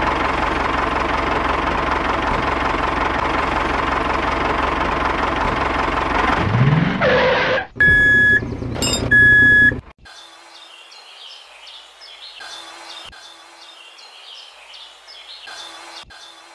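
Diesel tractor engine running steadily, with a short rising rev before it cuts off, followed by two high electronic beeps about a second and a half apart. It then goes quiet to a faint background with light chirps.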